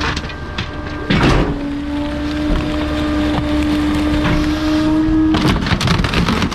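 Bulky-waste garbage truck's compactor crushing a load: the hydraulics hum steadily at one pitch, with loud crunching and cracking of items being crushed about a second in and again near the end.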